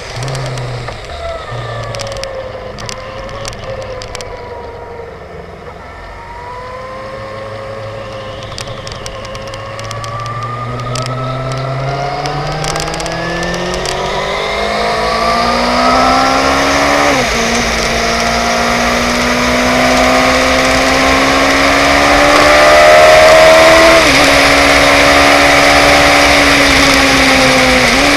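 Suzuki GSX-R750 K5's inline-four engine accelerating hard out of a turn, its pitch climbing steadily and dropping sharply at three upshifts in the second half. Wind noise builds as speed rises.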